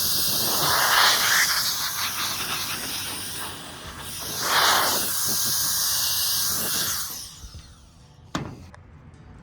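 Compressed air hissing from an air blowgun in long blasts, swelling twice, then stopping about seven seconds in. A single sharp click follows.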